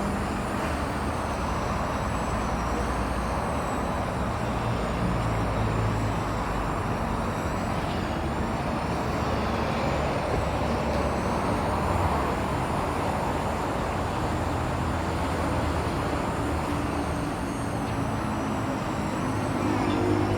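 Motor vehicle running steadily: a low rumble under an even hiss of road or traffic noise, with no sharp events.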